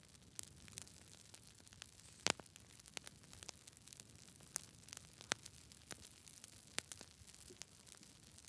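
Wood campfire crackling: irregular sharp pops and snaps over a faint low hiss, the loudest pop a little over two seconds in.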